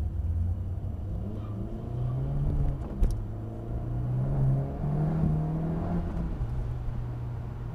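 Car engine heard from inside the cabin, accelerating hard. Its note climbs, breaks with a sharp click about three seconds in as it drops to the next gear, climbs again, then settles to a steady drone.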